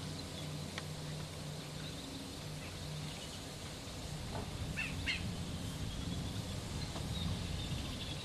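Small birds chirping a few times, with a quick cluster of chirps about five seconds in, over a low steady hum of outdoor background noise.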